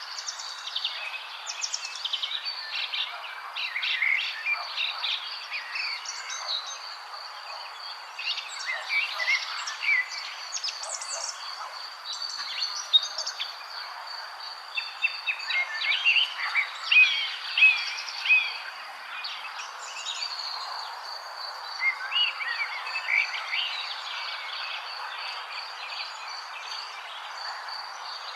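Several songbirds chirping and singing in short phrases, busiest in the middle, over a steady high pulsing trill and a constant hiss of outdoor background noise.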